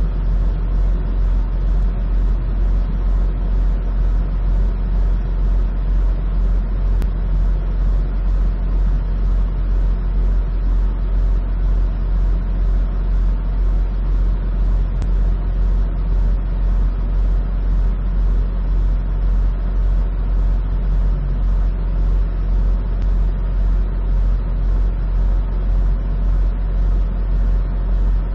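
Semi truck's diesel engine idling, a steady low rumble with an even pulse, heard from inside the cab.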